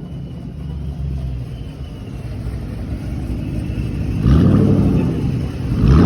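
Car engine idling with a low rumble, then revved in two short blips, about four and six seconds in.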